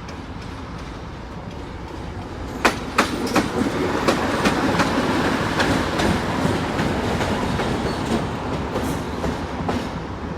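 Passenger train pulling in, its wheels clicking over the rail joints under a steady rumble. The rumble grows louder and the clicks start about two and a half seconds in.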